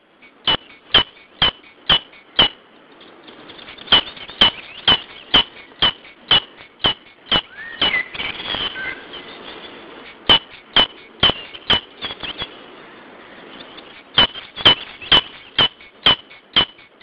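A bird repeating a sharp, clicking call note about twice a second, in runs of five to eight notes with short pauses between. A fainter sliding call comes in briefly about eight seconds in.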